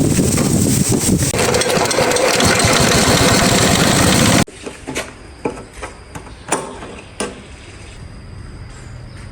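Old Yamaha generator's small engine running loudly, breaking off abruptly about halfway through. After that come scattered sharp clicks and knocks.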